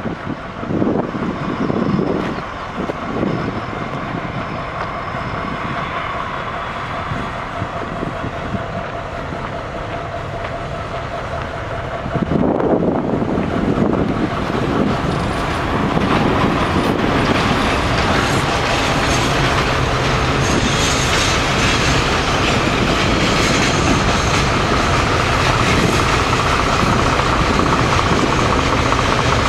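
Freight train hauled by a D11H diesel-hydraulic locomotive rolling slowly into a station: engine running and wagons rumbling on the rails, with clickety-clack over the rail joints. It grows suddenly louder about twelve seconds in as the train draws level, and a high steady squeal from the wheels comes in during the second half.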